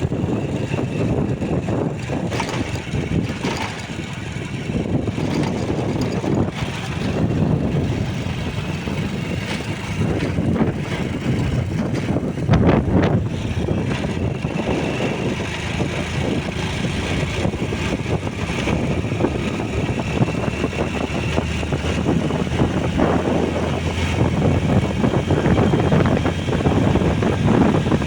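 Motorcycle being ridden along a road: a steady run of engine and road noise, with occasional knocks and bumps.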